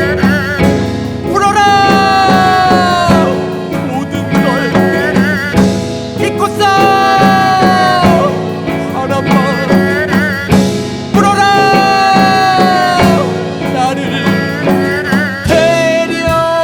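Korean gugak fusion band playing: long held melody notes with vibrato that droop in pitch at the end of each phrase, over a steady drum beat.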